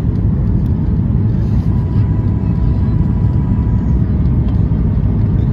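Boeing 737-800 cabin noise from inside the aircraft: a loud, steady low rumble of its CFM56 jet engines and the airflow. A faint thin whine is heard in the middle.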